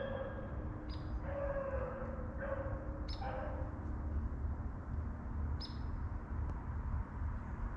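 Distant pack of rabbit hounds baying as they run a rabbit, a string of short cries in the first few seconds and one more about six seconds in, over a steady low rumble.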